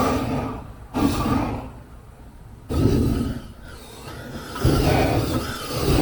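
Blow torch flame firing in repeated surges of rushing noise, each about a second long, as the torch is turned on bees in a tire hive.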